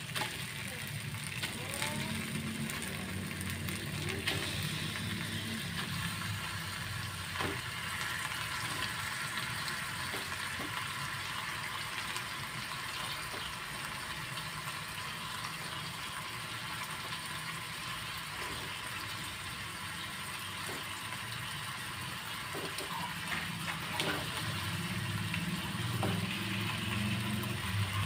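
Ground spice paste frying in a metal wok, with a steady sizzle. Scattered knocks and scrapes come as raw chicken pieces are dropped in and a wooden spatula moves against the pan, over a steady low hum.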